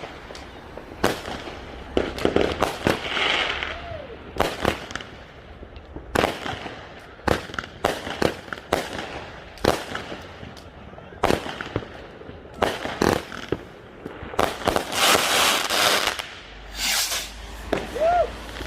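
Fireworks going off: many sharp bangs at irregular intervals, some close together, with a longer, dense crackling burst about three-quarters of the way through.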